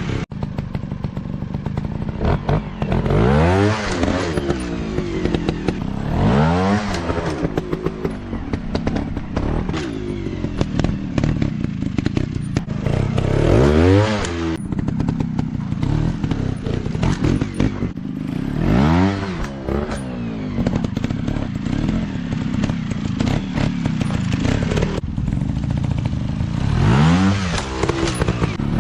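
Off-road dirt bike engine revving up and back down about five times as it is ridden, with constant clattering and knocks.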